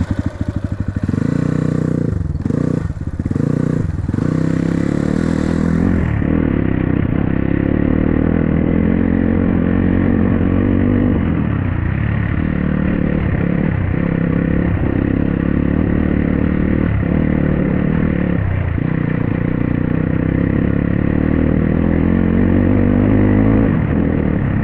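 Dirt bike engine running under way, the throttle lifting briefly a few times in the first four seconds and then pulling steadily.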